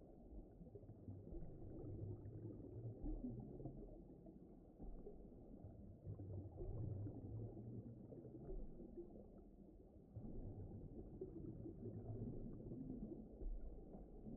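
Low, muffled rumbling ambient noise that swells and fades unevenly, with nothing above a deep murmur, like a deep-water ocean soundscape.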